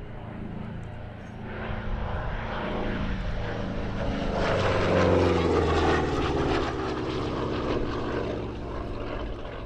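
A Merlin V12-engined Second World War fighter flies past low. Its propeller and engine build up, are loudest about five seconds in, and drop in pitch as it passes, then fade.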